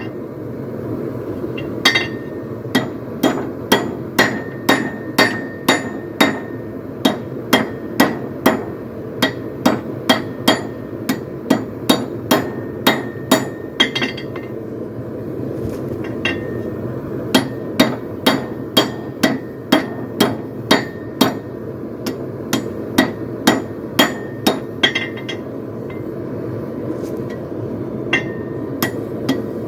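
Blacksmith's hand hammer striking a steel poleaxe spike in runs of light blows, about two a second, with short pauses between runs, as the spike is drawn out to a point. A steady low background noise runs underneath.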